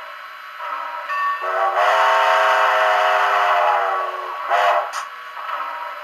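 Digital sound decoder in a model HOn3 2-8-0 steam locomotive playing a steam whistle through a small cell phone speaker: one long blast of about three seconds, then a short toot. Quieter steady locomotive sound effects run underneath.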